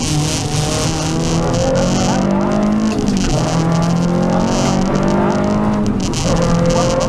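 Renault Clio Sport rally car's four-cylinder engine revving hard under acceleration, its pitch climbing through the gears with a drop at each upshift, about three seconds in and again near six seconds. A steady hiss runs underneath.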